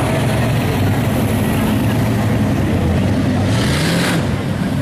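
Show cars rumbling past at low parade speed, one engine rising briefly in pitch with a short hiss about three and a half seconds in.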